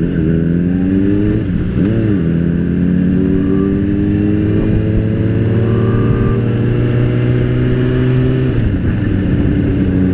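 Motorcycle engine pulling under way. Its pitch rises and falls twice in the first couple of seconds, then climbs slowly for several seconds, drops sharply as it shifts up near the end, and settles into steady running.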